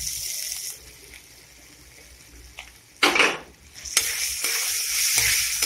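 Ground spices frying in hot oil in a kadai, sizzling and stirred with a metal spatula. There is a brief loud burst about three seconds in, and the sizzle swells loudly from about four seconds as grated ginger is dropped into the oil.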